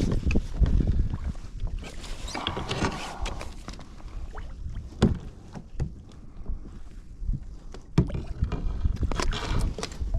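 Water splashing and scattered knocks against a kayak as a hooked halibut is worked alongside, with wind rumbling on the microphone. The splashing comes in two patches, about two seconds in and near the end, and the sharpest knocks come about five and eight seconds in.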